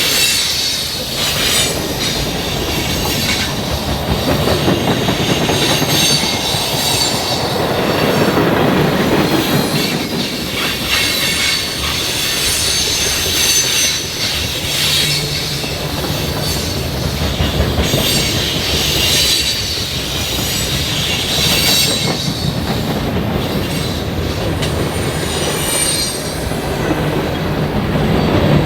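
Railroad cars rolling steadily past, wheels clacking over rail joints with high-pitched wheel squeal.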